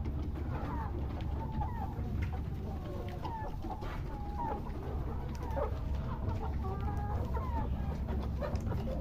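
A flock of Rhode Island Red chickens clucking and calling, many short overlapping calls one after another, over a steady low hum.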